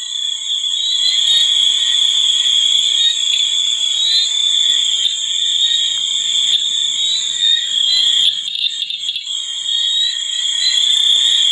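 A dense, steady chorus of calling animals: a continuous high-pitched buzzing drone, with faint short rising chirps above it about once a second.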